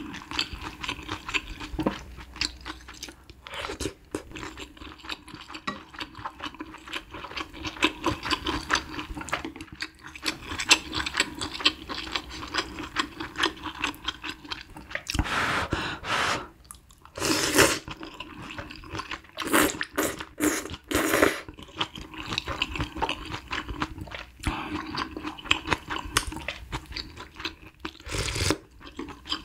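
Close-miked mouth sounds of a person eating malatang: steady chewing with crunching. There are several louder bursts in the second half.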